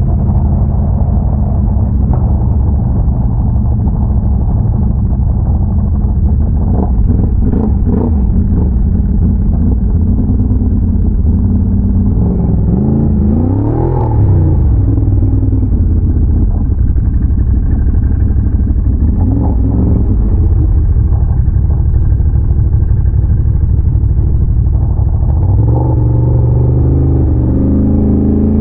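Big-bore Can-Am Renegade ATV's V-twin engine running under way with a steady low drone. Past the middle its revs climb and drop back, and near the end they rise again. A few short knocks come about seven seconds in.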